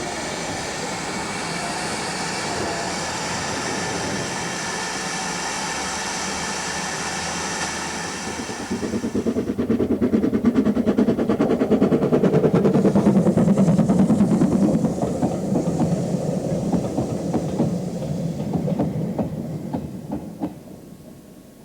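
Preserved Great Western train on the line: first a steady hiss with held tones, then from about eight seconds in a louder, fast rumble and clatter of the train passing close. The sound fades away over the last few seconds.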